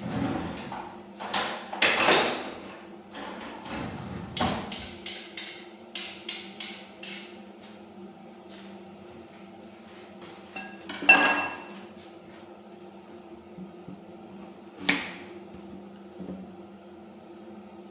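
Kitchenware clattering: a run of sharp knocks and clicks, then one loud ringing clank about eleven seconds in and a single knock a few seconds later, over a steady low hum.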